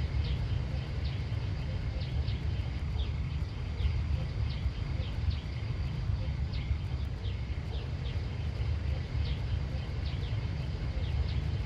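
Outdoor rural ambience: small birds chirping repeatedly in short high notes over a steady low rumble.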